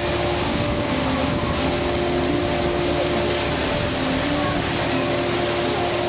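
Steady motor noise of an amusement-ride boat underway, with a few steady tones humming over it.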